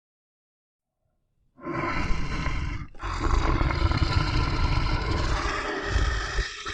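A big cat roaring: one loud, rough roar begins about a second and a half in, breaks off briefly just before the middle, then carries on.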